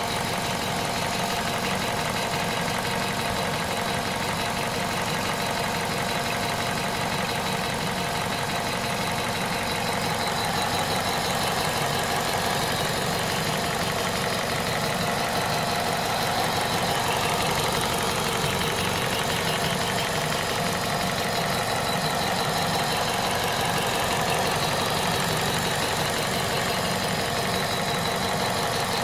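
Warm PSA 1.6 VTi 120 four-cylinder petrol engine idling steadily, with an even mechanical clatter.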